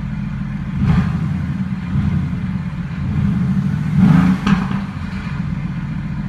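Mercedes-AMG GT S 4.0-litre twin-turbo V8 with performance exhaust in Race mode, idling and revved briefly a few times, the biggest rise in pitch about four seconds in.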